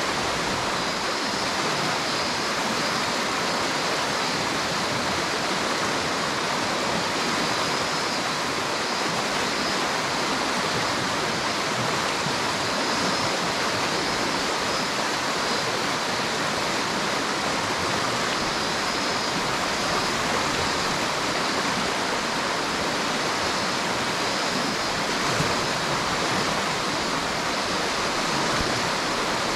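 River water rushing steadily, an even unbroken wash of noise.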